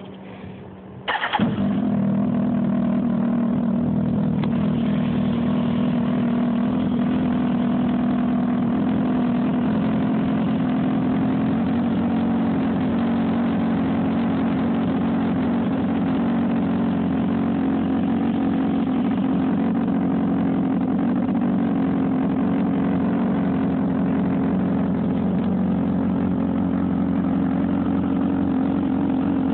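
2007 Kawasaki ZX-10R's inline-four engine starting: a brief crank, then it catches about a second in and idles steadily through its aftermarket KMS exhaust.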